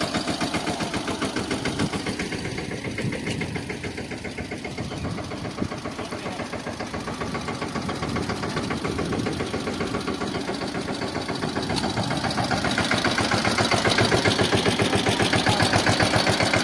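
Tractor diesel engine running with an even, rhythmic beat while pulling a tine cultivator through a field. It grows louder about two thirds of the way in.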